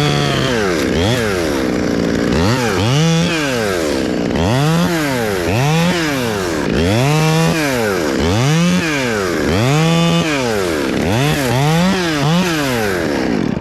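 Chainsaw cutting into very hard Australian pine wood, its engine pitch rising and falling about once a second as the chain loads up in the cut and frees again.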